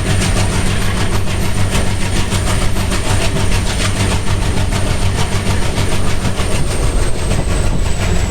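WDM3A diesel locomotive's ALCO 251 sixteen-cylinder engine running with a steady low hum and a rapid, even chugging beat. A thin high whine runs over it and drops slightly in pitch near the end.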